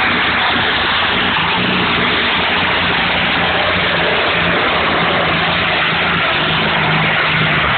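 Competition pulling tractor's engine running at full power under load during a pull: loud and steady, with a dense rushing noise over a low engine tone.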